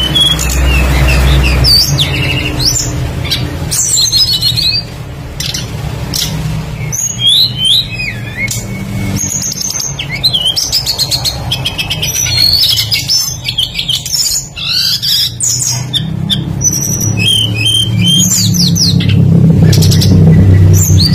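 A songbird singing a fast, varied run of whistled glides, trills and chirps with hardly a pause, over a low rumble that swells near the end.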